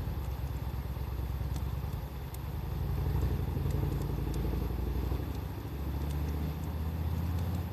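A motor engine running with a low, steady hum that shifts in pitch a little over halfway through. Sparse, sharp crackles of a wood fire sound over it.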